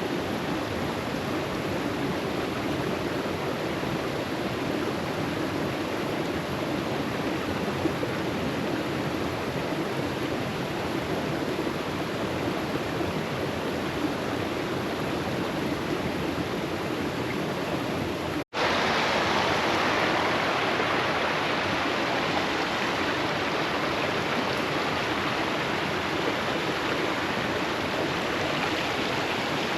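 Steady rushing noise. It cuts out for an instant about 18 seconds in and comes back louder and brighter.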